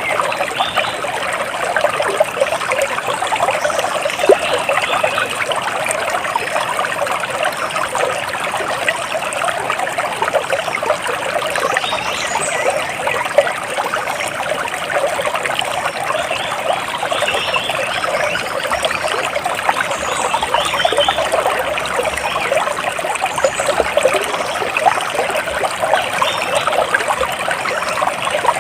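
Water splashing and trickling steadily in a dense, even patter, with a few faint short bird chirps now and then.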